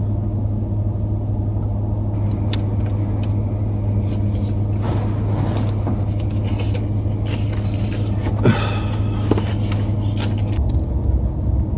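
BMW M5's engine idling, heard inside the cabin as a steady low hum whose note shifts near the end. Water spray hiss against the car comes and goes over it as the wheels are pressure-washed.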